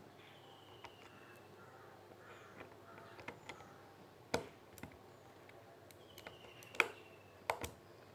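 A few sharp clicks, the loudest about four and a half and seven seconds in, over faint room noise. A faint high whistle, falling slightly in pitch, comes twice.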